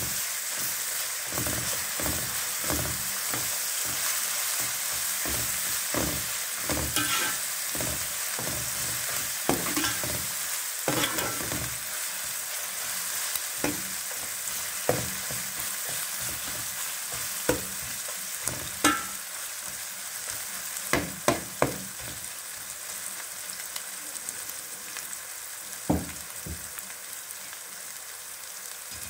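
Sliced onions, curry leaves, whole spices and fresh ginger-garlic sizzling in hot oil in a metal pot, with a metal spoon stirring and scraping and knocking against the pot. The knocks are frequent at first and thin out in the last third, and the sizzle gets slightly quieter.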